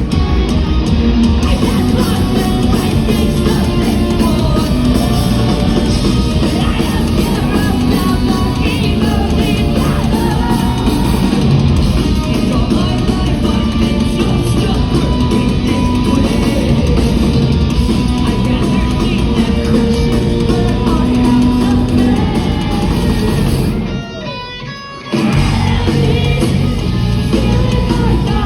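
Live rock band playing loud, with distorted guitars, drums and singing. About 24 seconds in the band cuts out for about a second, leaving only a faint held note, then crashes back in at full volume.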